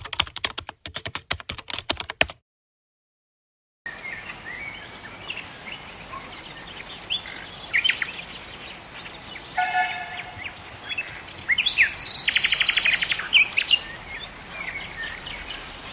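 Rapid clicking like keyboard typing for about two seconds, then a short break of silence. After that, outdoor ambience with several birds chirping and calling, including a fast rattling trill near the end.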